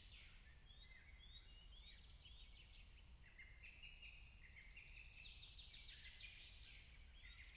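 Near silence, with faint high bird chirps and trills repeating throughout over a faint low rumble.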